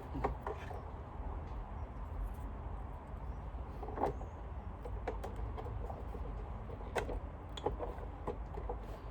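Clicks and knocks of a Sanitaire vacuum's brush roll and plastic housing being handled, scattered through, with sharper knocks about four seconds in and about seven seconds in, over a steady low hum.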